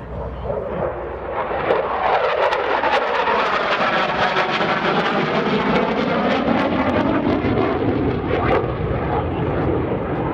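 Jet noise from a single-engine F-16C fighter (General Electric F110 turbofan) flying a pass. It swells about two seconds in and stays loud, with a sweeping, phasing rush.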